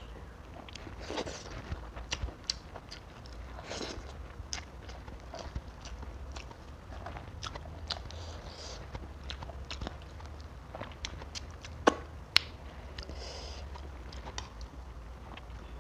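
Close-miked eating of fried tilapia by hand: chewing and crunching, with many scattered small clicks from fingers on the fish and tray. Two sharp clicks a little after the middle are the loudest.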